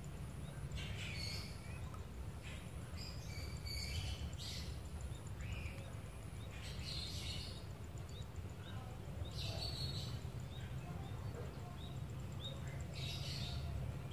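Outdoor ambience of a steady low rumble, with birds chirping in short calls every couple of seconds.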